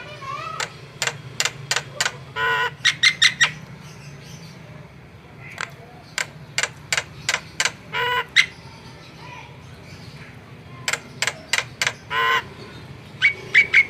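Javan myna calling: a quick run of sharp clicking notes ending in a harsh, buzzy squawk, repeated three times.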